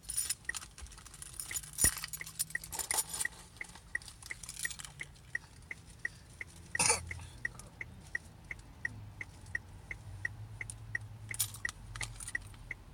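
A car's electronic dashboard chime beeps rapidly and evenly, about three beeps a second, over occasional keys jangling. A single louder clunk comes about seven seconds in.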